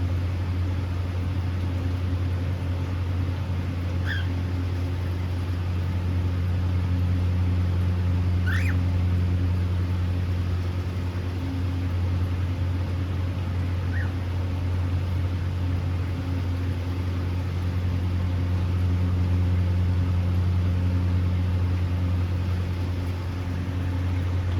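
A steady low machine hum throughout, with three brief cockatiel chirps over it: one about four seconds in, a short rising whistle near the middle, and a faint one about fourteen seconds in.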